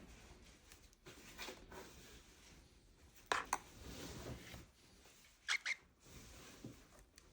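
Pet cockatiel making two quick pairs of short, sharp sounds about two seconds apart, the second pair with a brief chirp-like note.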